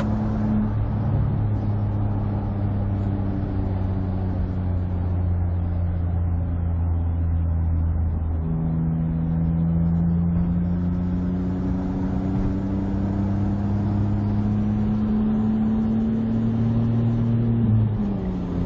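Engine and XSP aftermarket exhaust of a Smart with an 84 hp turbo engine, running steadily under way. The engine note drops about eight seconds in, climbs slowly for the next nine seconds or so, and drops again near the end.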